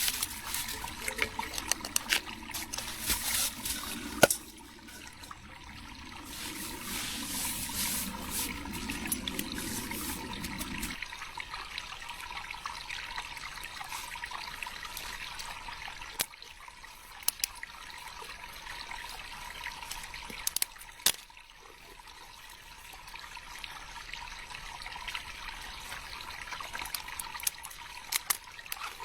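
Water trickling steadily, with scattered short clicks and knocks throughout. A low rumble stops abruptly about eleven seconds in.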